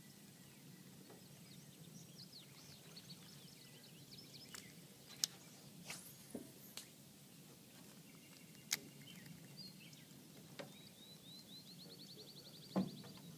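Faint outdoor quiet with scattered bird calls and a high trill near the end, broken by a few sharp clicks and a duller knock near the end.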